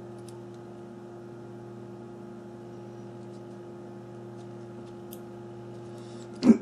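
Steady electrical hum with a few faint light ticks, and a short loud noise right at the end.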